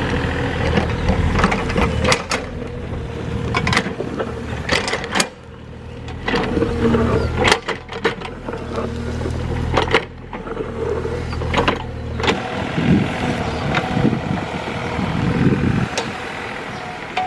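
Excavator's diesel engine running and working under changing load, with repeated sharp cracks and knocks as it digs and clears ground.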